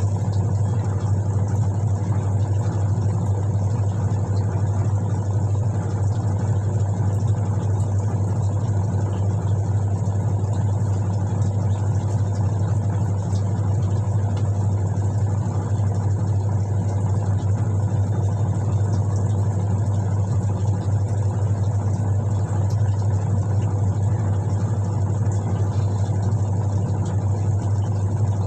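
Steady low electric hum of a Whirlpool White Magic Classic washing machine's motor running, unchanging throughout.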